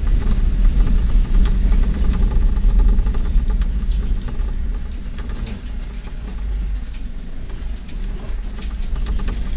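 A vehicle driving along with its engine running: a steady low rumble with road noise and small rattles, easing off a little partway through.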